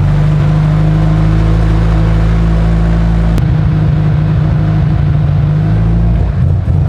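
2003 Mitsubishi Lancer Evolution's turbocharged 2.0-litre 4G63 inline-four idling just after starting. A single click about three and a half seconds in, after which the idle sounds less even.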